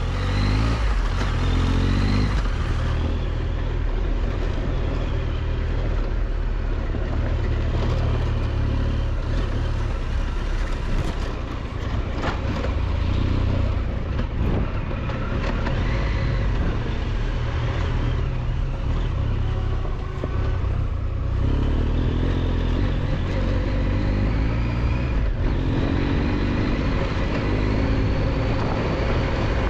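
Triumph Tiger 1200 XCX's three-cylinder engine running under way on a rough dirt road, revs rising and falling with throttle, with wind noise and occasional knocks from the bike over the rough surface.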